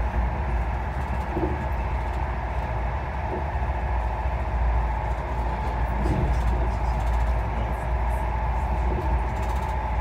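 Passenger train running along the rails, heard from inside the carriage as a steady, deep rumble.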